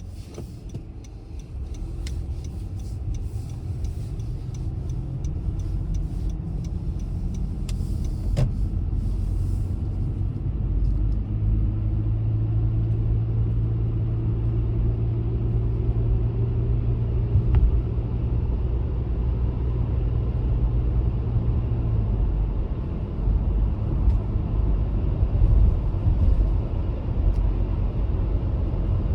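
A car driving, its low engine and road rumble growing louder over the first few seconds and then holding steady, with faint clicks during the first third.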